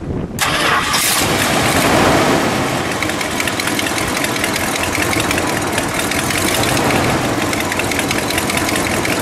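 A 1968 Imperial's 440 cubic-inch V8 starts with the hood up: a brief crank, then it catches about half a second in, runs up loudest around two seconds in, and settles into a steady idle.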